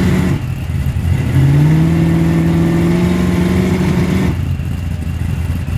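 Car engine revved up and held at steady high revs for about three seconds before being let off, over a steady low engine rumble. A previous rev cuts off just after the start.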